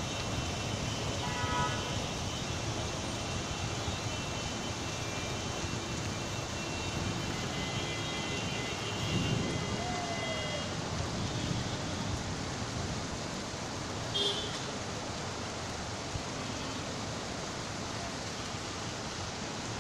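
Steady hiss of rain falling in a city street, with traffic noise under it and a few short high tones now and then.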